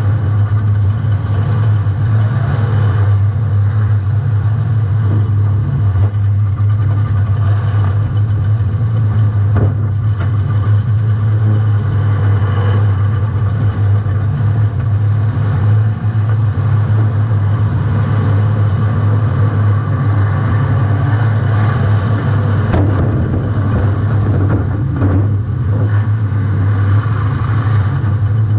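Welded compact demolition-derby car's engine running loudly and steadily, picked up close from a rear-mounted GoPro, with a few brief knocks.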